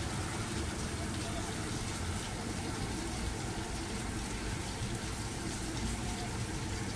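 Steady rain falling on trees and wet pavement, an even hiss with no separate events.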